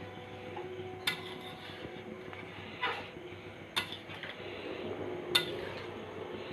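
Metal utensil clinking against a cooking pot four times, the last clink the loudest.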